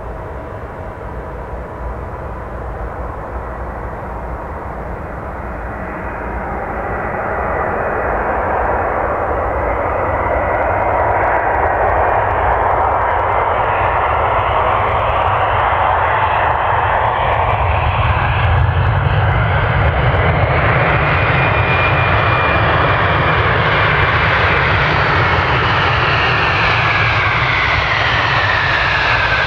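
Airbus A320-200 jet airliner coming in to land, its engine noise growing louder as it approaches, then a steady loud jet roar with engine whines that fall in pitch near the end as it passes by.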